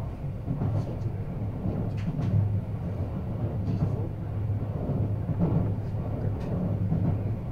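Kintetsu Hinotori (80000 series) limited express running at speed, heard inside the passenger cabin: a steady low rumble of the train in motion, with a few faint clicks.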